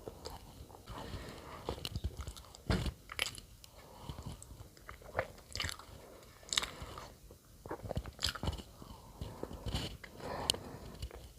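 Close-miked eating of soft bread: bites and chewing, with irregular small clicks and smacks of the mouth.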